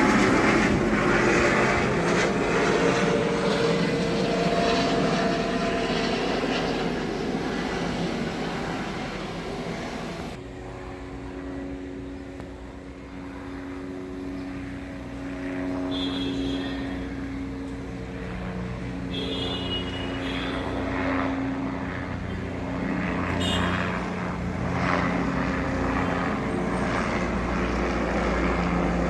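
Propeller aircraft engines running, a dense, rushing engine noise that changes abruptly about ten seconds in to a quieter, steadier hum with distinct tones.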